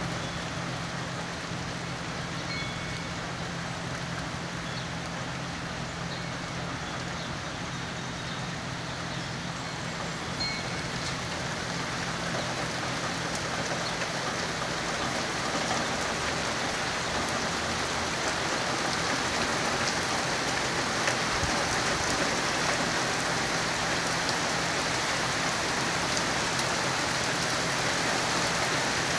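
Steady rain falling on wet pavement, gravel and grass, growing heavier over the second half.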